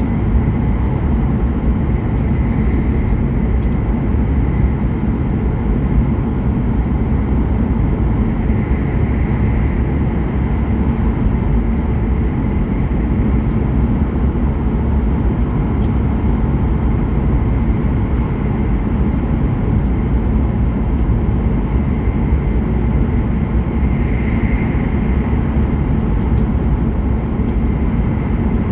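Hokuriku Shinkansen E7/W7-series train running at speed, heard from inside the passenger cabin: a steady rumble with a faint high whine.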